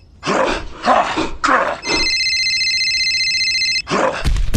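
A steady electronic ringing tone, broken early on by three short, noisy bursts, returns for about two seconds and then stops as loud noisy bursts with low thuds take over near the end.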